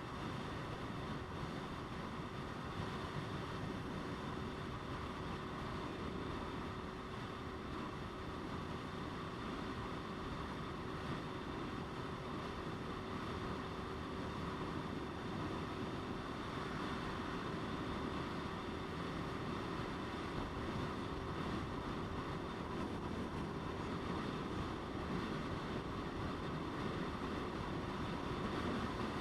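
Motorcycle riding at a steady speed: a steady engine drone mixed with wind rushing over the microphone, with no sharp events.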